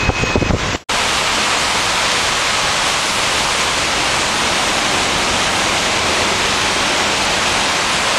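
Floodwater rushing in a steady, rumbling, thunderous roar. It cuts in suddenly just under a second in.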